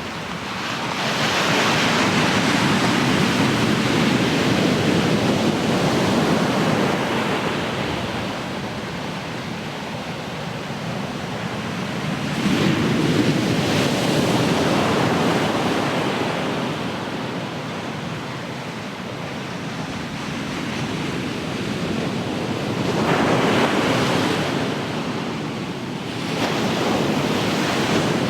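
Ocean waves breaking and washing on the shore, swelling in a loud rush about every ten seconds and easing to a softer hiss in between.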